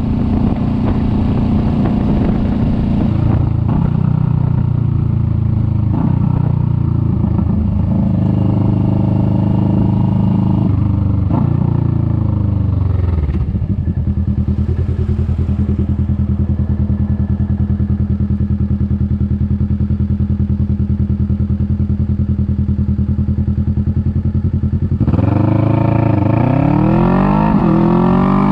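Kawasaki Vulcan S 650 parallel-twin engine heard from on board. It drops in pitch in steps as the bike slows, settles into an even idle for several seconds, then revs up in rising sweeps as it pulls away near the end.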